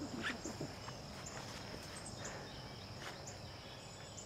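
Faint outdoor ambience of insects: a steady high-pitched drone, with short faint chirps every second or so.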